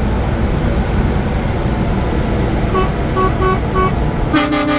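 Steady motorway road and engine rumble, with four short evenly spaced horn toots about three seconds in, then a long, loud air-horn blast from a Scania lorry starting near the end.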